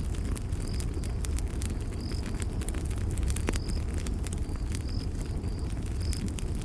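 Campfire crackling: a steady low rumble of burning wood with frequent sharp pops and snaps. Short high chirps come in about once a second over it.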